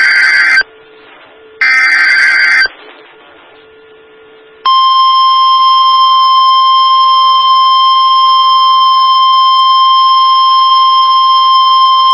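Emergency Alert System header data: two one-second bursts of harsh buzzing digital tones about a second apart. About five seconds in, the loud steady EAS attention tone starts and holds without change, announcing the warning to follow.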